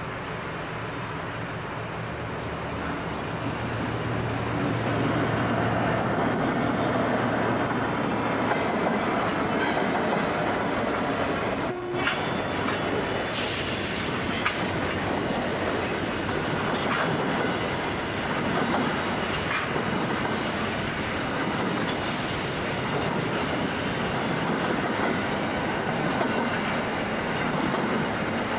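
Diesel-hauled freight train passing: a low engine note in the first seconds, rising over about four seconds to a steady rolling rumble of locomotives and wagons on the rails.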